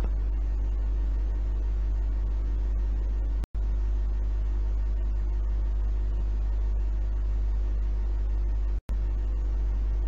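A steady low hum that cuts out abruptly twice, about three and a half seconds in and again near the end.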